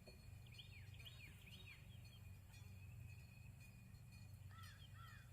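Near silence: faint, distant small birds chirping in short repeated calls over a low steady hum.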